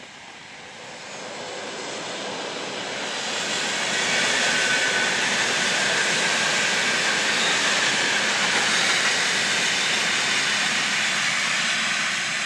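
Passenger train hauled by an EP2K electric locomotive running on the rails: a steady rush of wheel and rail noise that builds over the first few seconds, holds loud, and eases near the end.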